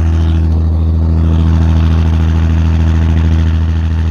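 Old combine's diesel engine idling steadily as it warms up after a cold start.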